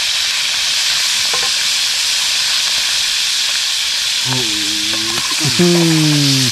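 White-winged dove pieces frying in hot oil in a pan, a steady sizzle.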